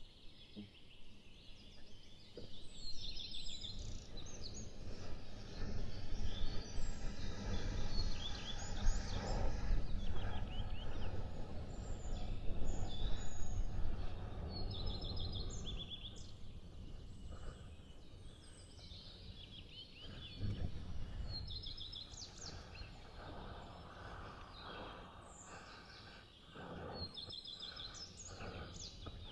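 Small songbirds singing in repeated short chirping phrases, with wind rumbling on the microphone, heaviest through the first half.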